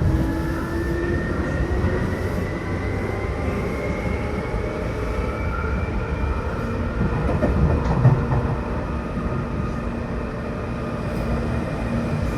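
Onboard running sound of a Seibu New 2000 series electric train: a steady wheel-on-rail rumble with the traction motor whine climbing slowly in pitch as the train gathers speed, and a few brief knocks from the track about two-thirds of the way through.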